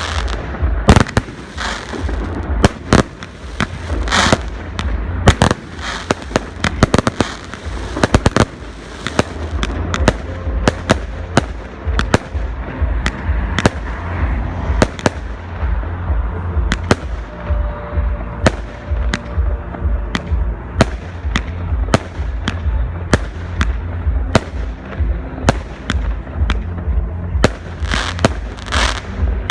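Fireworks display: shells bursting in a fast, irregular string of sharp bangs, dozens of them, over a steady low rumble.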